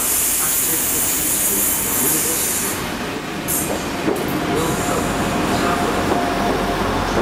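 Class 175 diesel multiple unit running in slowly alongside the platform and braking as it passes, its underfloor diesel engine rumbling more deeply in the second half, with a thin steady whine. Coal hopper wagons roll on the next track; a steady high hiss stops about three seconds in.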